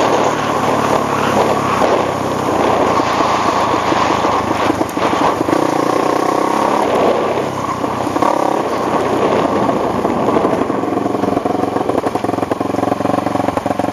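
ATV engine running loudly, its pitch shifting with the throttle. In the last few seconds it drops to a lower, choppy pulsing, closer to an idle.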